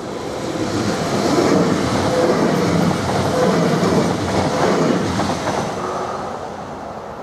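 NMBS electric multiple-unit passenger train passing at speed on the rails. It swells about a second in, stays loud for several seconds and fades away near the end.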